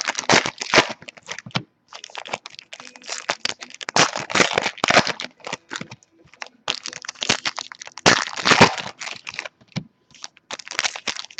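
Crinkling and crackling of trading-card pack wrappers being handled and torn open, in several rustling spells with short pauses between them.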